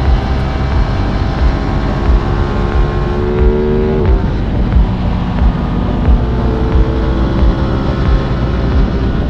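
Aprilia RS 660's parallel-twin engine pulling under way, with heavy wind buffeting on the microphone. Its pitch climbs for a couple of seconds, drops abruptly about four seconds in, then holds and climbs again.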